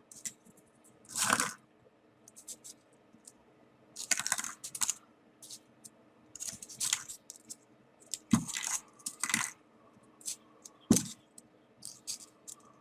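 Small folded paper 3D origami pieces being handled and pushed into place by hand: irregular paper rustles and crinkles, with a few sharp clicks.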